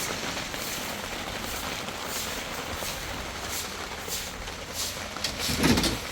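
Steady rain pattering, with a louder rustling surge about five and a half seconds in.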